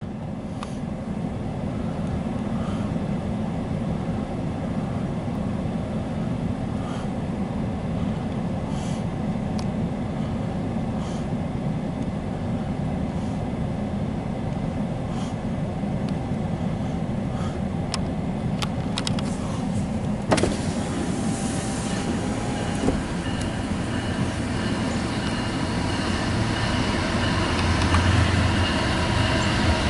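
Approaching diesel freight train, its locomotives running with a steady low rumble. About two-thirds of the way through, the sound changes abruptly to a steadier low hum with a faint whine that grows louder toward the end, as a train comes in from farther off.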